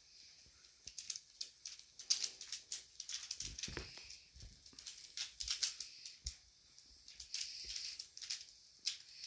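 Plastic pyramid twisty puzzles (Pyraminx) being turned fast, a rapid, irregular clatter of clicks from the pieces snapping into place.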